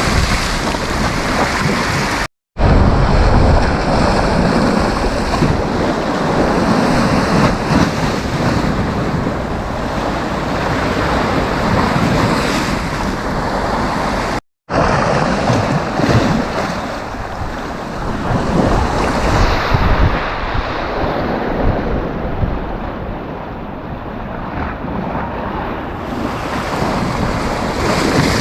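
Sea surf washing and breaking on a sandy beach, a continuous rushing noise, with wind buffeting the microphone as a gusty low rumble. The sound cuts out completely for a split second twice, about two and a half seconds in and again about fourteen and a half seconds in.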